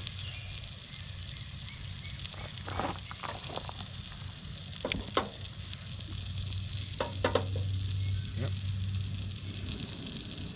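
Chicken breast frying in bacon grease in a cast iron skillet: a steady sizzle with a few sharp crackles scattered through it.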